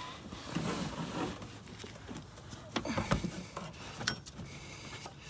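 Scattered clicks and knocks of hand tools and metal parts being handled while fitting a serpentine belt, with a few sharper knocks about three and four seconds in.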